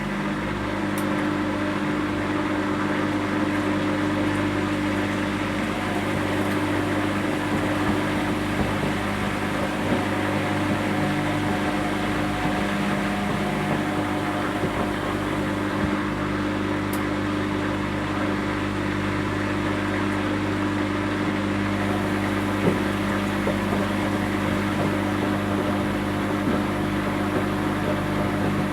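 Whirlpool washing machine running mid-programme with a steady motor hum and the whir of the turning drum. Two faint ticks stand out, about a second in and again about 17 seconds in.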